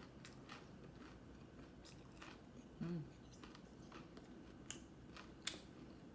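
Close-up crunchy chewing of a battered, deep-fried seaweed roll wrapped in rice paper, with crisp crackles scattered through, the sharpest two near the end. A brief low hum about three seconds in.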